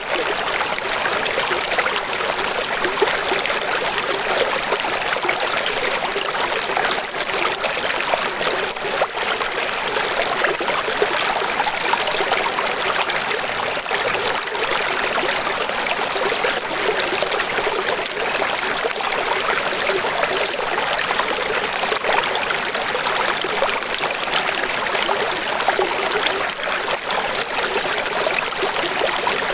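Running water, splashing and trickling steadily, with no low rumble.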